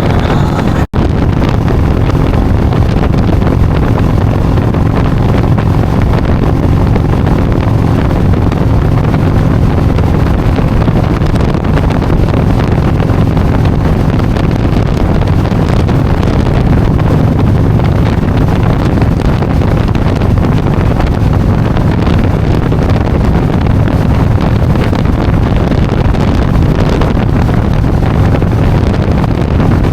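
Motorcycle engine running at a steady speed while riding, with heavy wind noise buffeting the microphone. There is a brief dropout about a second in.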